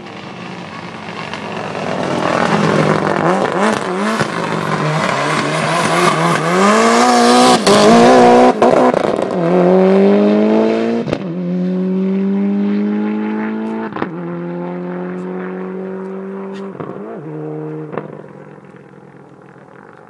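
Turbocharged Subaru Impreza engine worked hard, revving unevenly while the car slides, then pulling up through the gears. The pitch climbs in each gear and drops at each upshift, with a sharp crack at several shifts. It is loudest about eight seconds in, then fades as the car pulls away.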